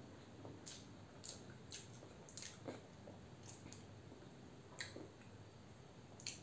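Faint, wet mouth sounds of someone chewing peeled hard-boiled egg: irregular small clicks and smacks, about a dozen.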